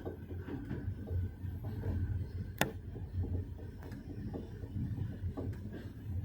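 Railway carriage running, a steady low rumble with continual rattling and clicking, and one sharp click about two and a half seconds in.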